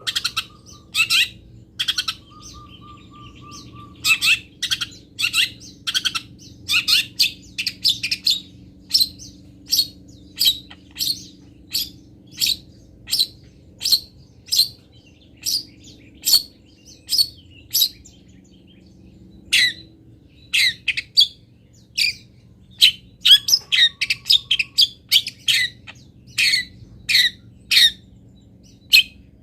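Long-tailed shrike (cendet) calling: a long series of short, sharp chirps, about one or two a second. A faint thin trill comes near the start and again about two-thirds of the way through.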